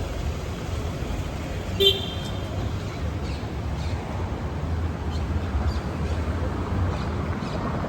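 City street ambience: a steady low traffic rumble, with one short high-pitched toot about two seconds in.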